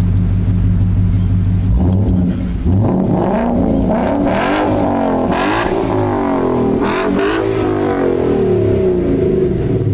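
2017 Ford Mustang GT's 5.0-litre V8 through a resonated X-pipe with the mufflers deleted, idling steadily and then revved several times, its pitch rising and falling with each throttle blip before settling back.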